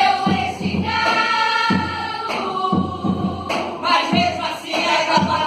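A choir of voices chanting and singing together in long held notes over low thumping beats.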